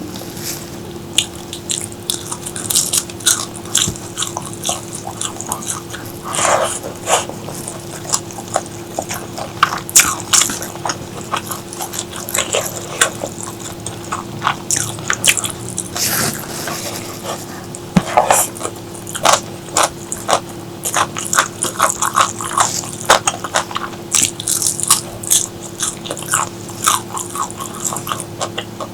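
Close-miked chewing and mouth sounds: irregular wet smacks, clicks and crunches of someone eating, coming in clusters, over a steady low hum.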